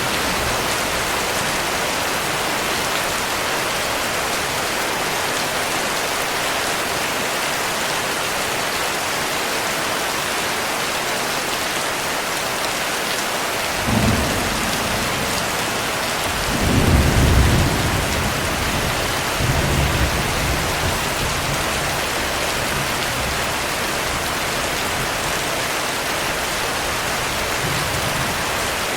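Steady heavy rain with thunder: a short rumble about halfway through, a louder rolling rumble a few seconds later, and a weaker one after it.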